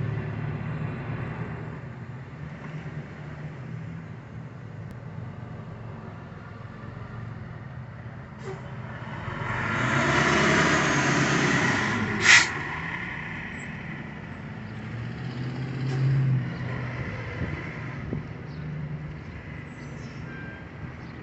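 Heavy diesel truck engine idling with a steady low rumble, typical of a fire engine at a scene. A louder rushing swell builds for a couple of seconds around the middle, then ends with a short, sharp air-brake hiss.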